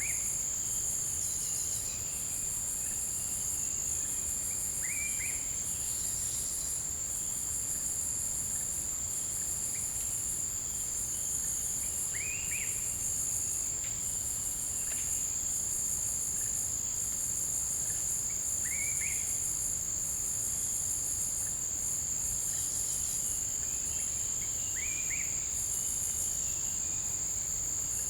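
Forest insects singing in a steady high chorus: one unbroken high whine, with a faster pulsing layer above it that comes and goes in stretches of about a second. A short rising call repeats about every six seconds beneath it.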